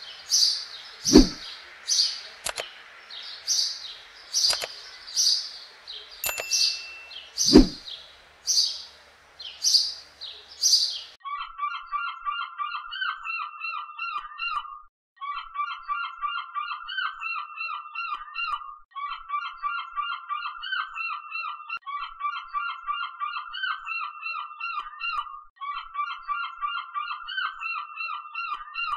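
A bird calling in a series of sharp, high chirps, with a few loud thumps among them. About eleven seconds in it gives way to a fast, even chattering call repeated in bouts of about three seconds with short gaps between.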